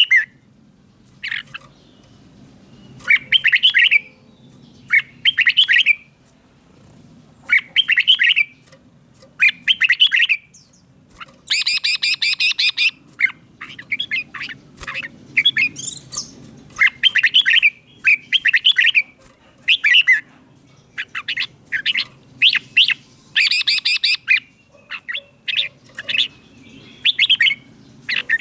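Red-whiskered bulbul singing: short, bright phrases of quick whistled notes repeated every second or two, with a harsher rasping note about a third of the way in and again near the end.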